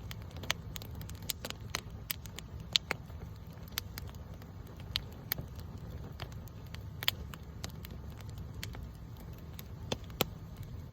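Campfire burning, its wood crackling and popping in sharp irregular snaps over a low steady rumble of the flames.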